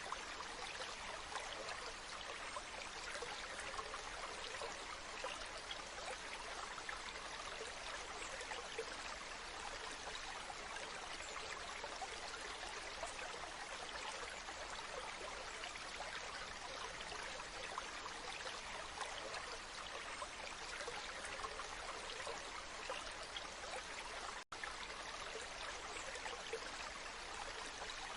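Waterfall: a steady, even rush of falling water, cutting out for an instant about 24 seconds in.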